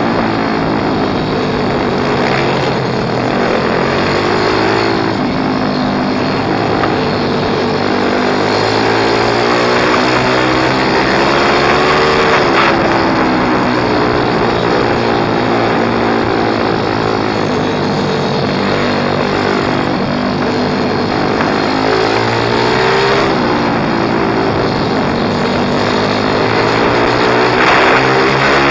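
Pit bike engine being ridden hard, revving up and dropping back every few seconds as the rider works the throttle and gears, over a steady rushing noise.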